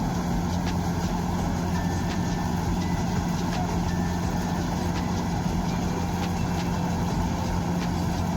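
Heavy farm machine's diesel engine running steadily, a constant low hum with no change in speed.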